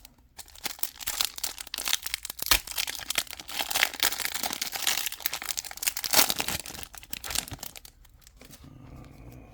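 Foil booster-pack wrapper of Pokémon trading cards crinkling and tearing open for about seven seconds, then going quieter near the end.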